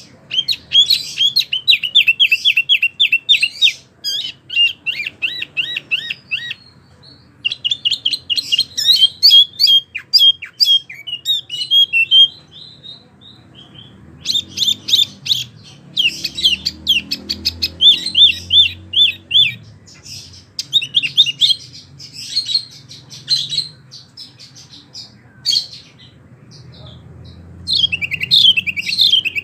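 A wambi songbird singing: loud, fast runs of repeated high chirps and trills, coming in bursts a few seconds long with short pauses between them.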